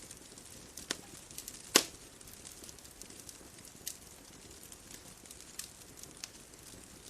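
Wood fire crackling: irregular sharp pops and snaps over a faint steady hiss, with one loud snap just under two seconds in.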